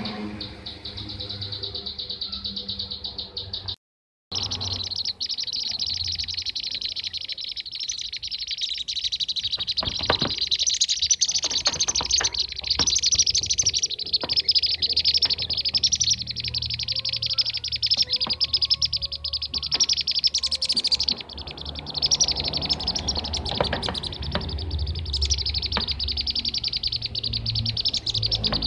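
Bee-eaters (kirik-kirik) calling in a dense, continuous chatter of rapid trilling chirps, played as a lure recording for trapping the birds. The calls cut out briefly about four seconds in, then resume.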